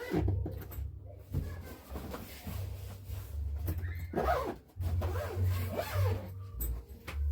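Rubbing and handling noises with uneven low rumbling and a few knocks, as things are moved about; muffled voices come in briefly about four seconds in.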